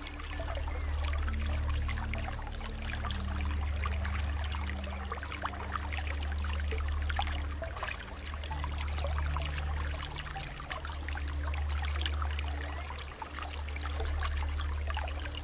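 Water trickling steadily over a low, droning bed of held notes that change every few seconds.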